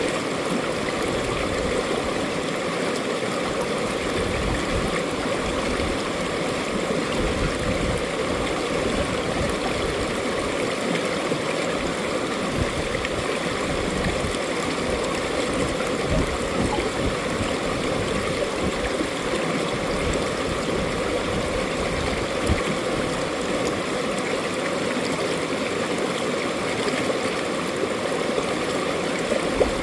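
Mountain valley stream flowing, a steady, even rush of water that neither swells nor breaks.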